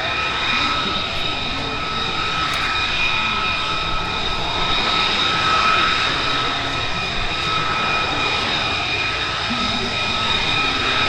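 Aircraft engine running steadily, a high-pitched whine held on one pitch over a dense rumble.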